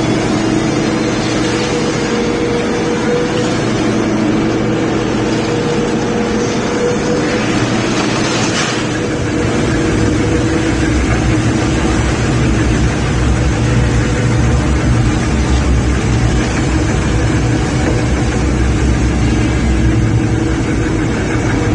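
Double-shaft metal shredder running, its motor humming steadily while it shreds iron filings and steel machining scrap. A deeper low rumble grows stronger about nine seconds in.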